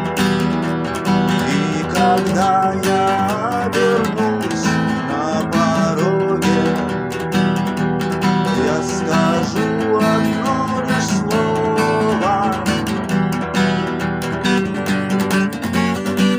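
Acoustic guitar strumming chords in a steady rhythm, with melodic notes moving over them: an instrumental passage with no singing.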